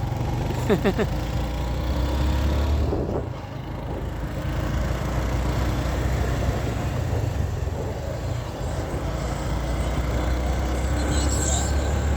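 Motorcycle engine running steadily while riding, with rushing wind noise; the sound eases off briefly about three seconds in before picking up again.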